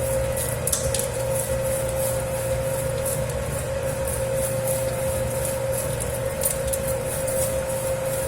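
Dough kneading machine running steadily through a 10 kg batch of pizza dough: a constant motor hum and low rumble, with a repeating swish about three times a second as the dough turns in the bowl.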